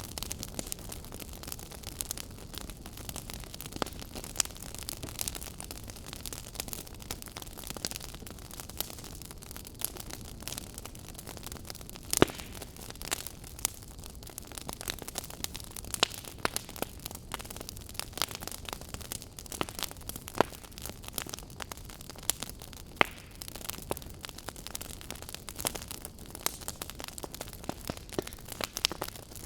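Fireplace fire crackling: irregular sharp pops and snaps over a steady low rumble and hiss, with one louder pop about twelve seconds in.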